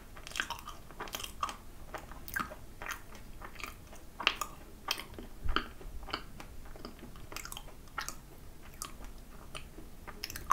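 A person chewing a mouthful of macaron: a string of small, irregular clicks and crackles as the shell and filling are chewed.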